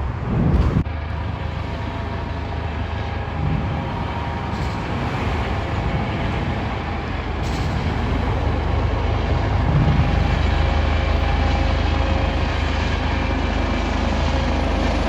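Steady low rumble of heavy vehicle traffic with a faint engine hum, swelling briefly in the first second and growing a little louder about halfway through.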